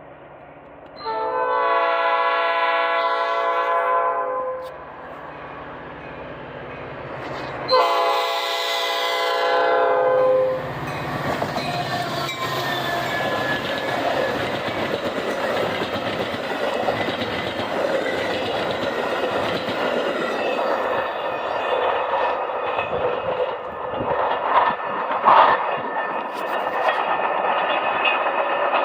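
Train horn sounding two long blasts of several notes at once, each about three seconds. The train then passes with a steady rolling rumble and the clatter of wheels over the rails.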